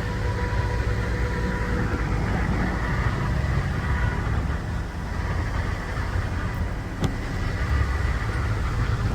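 A heavy vehicle engine running steadily with a low rumble and a faint steady whine, and a single sharp click about seven seconds in.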